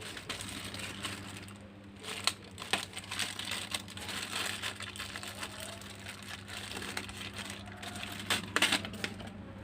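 Plastic packaging crinkling and rustling as a cable is handled and unwrapped, with scattered sharper clicks, the loudest about two seconds in and again near the end.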